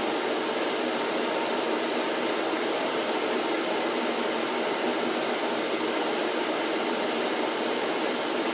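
Vacuum cleaner running with a steady, even whoosh of motor and airflow.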